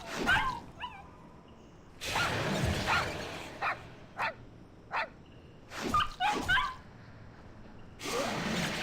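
A small dog yipping and whimpering in short high calls, a couple near the start and another couple about six seconds in, with short noisy rustles and knocks between.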